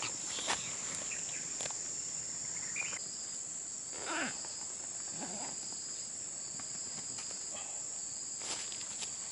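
Steady high-pitched chorus of crickets or similar insects, with a few soft rustles and clicks.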